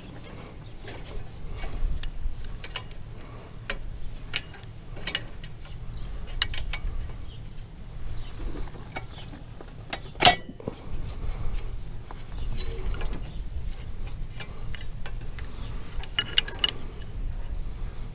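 Scattered metallic clicks and clinks of a wrench working the injector line fittings on a diesel tractor engine, with one sharp clink about ten seconds in and a quick cluster near the end. Wind rumbles on the microphone throughout.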